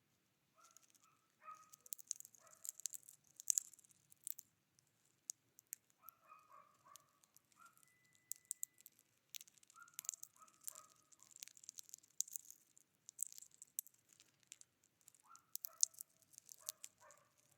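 Wild birds calling, faint: short harsh calls come in quick series of three or four every few seconds, over many sharp high ticks and chips. A brief steady whistle sounds about halfway through.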